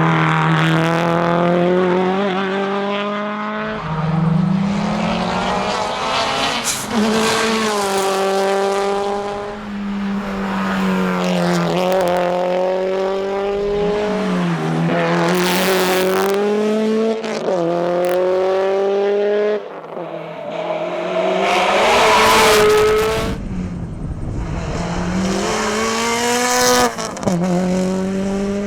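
Subaru Impreza WRX STI S204's turbocharged flat-four engine pulling hard through the gears at rally pace, its pitch climbing and dropping sharply at each gear change, over and over.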